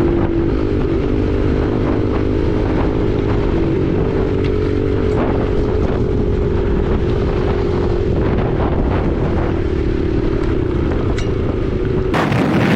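Husqvarna 501 dirt bike's single-cylinder four-stroke engine running at a fairly steady pace under way, with heavy wind buffeting on the unshielded microphone and scattered knocks and clatters.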